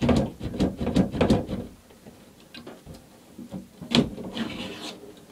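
A quick run of knocks and scrapes, then a single sharp knock about four seconds in followed by a short scrape.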